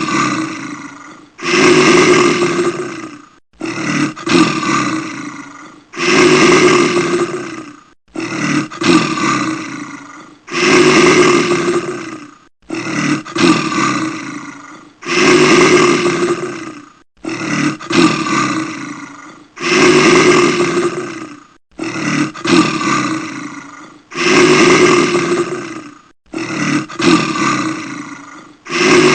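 Bear roaring over and over: loud roars of a second or two each with short gaps between, the same sequence repeating at even spacing about every four and a half seconds, as a looped recording.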